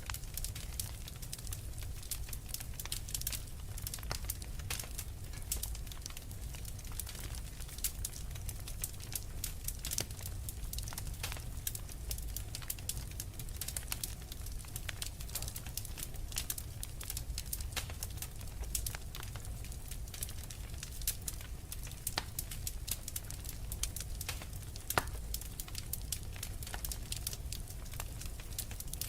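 Wood fire crackling in a fireplace: many small sharp pops and snaps, several a second, over a low steady rumble of the flames.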